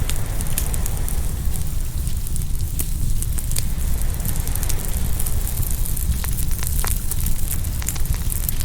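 Open wood fire crackling, with many small sharp pops scattered irregularly over a steady low rumble.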